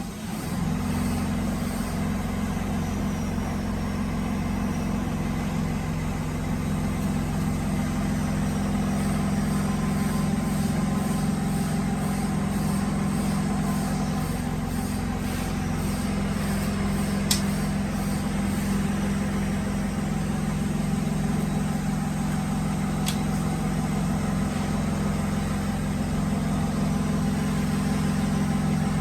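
A workshop machine motor runs with a steady, unchanging hum, and two sharp clicks come about two-thirds and four-fifths of the way through.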